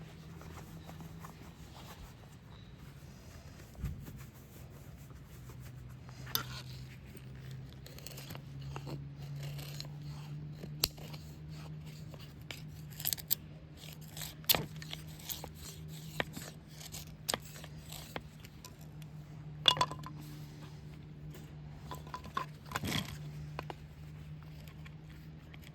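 Irregular clicks, knocks and rustles of small objects being handled, over a steady low hum.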